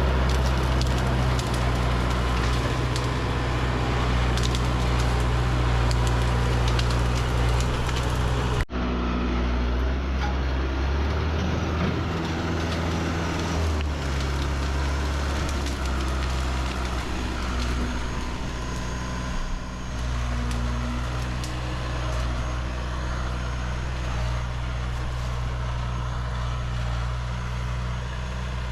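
A heavy vehicle engine running, with a sudden break about nine seconds in; afterwards its pitch shifts up and down for several seconds as the engine changes speed, then settles back to a steady run.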